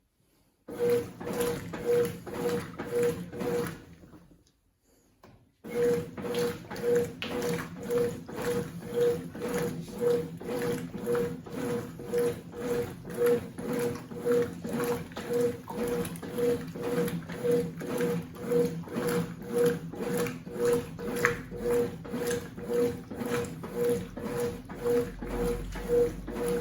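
Consul CWC08 8 kg washing machine agitating a load: the motor swings the drum's washing action back and forth in a steady rhythm of about one and a half strokes a second, each stroke with a hum. It pauses for a couple of seconds early on, then resumes.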